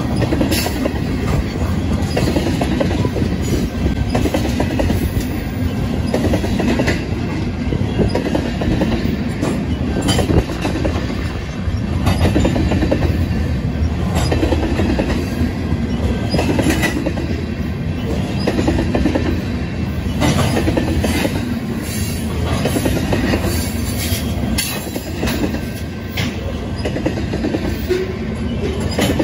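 Freight train of tank cars rolling past at a level crossing: a steady rumble of steel wheels on the rails, broken now and then by sharp clanks as the wheels pass over rail joints.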